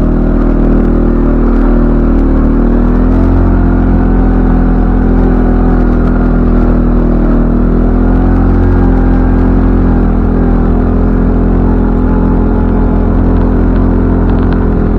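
CFMoto ATV engine running steadily under way, a continuous drone whose pitch rises and dips slightly as the throttle changes.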